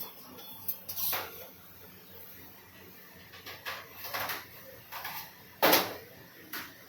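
Intermittent brief knocks and scrapes of objects being handled, loudest about three-quarters of the way through.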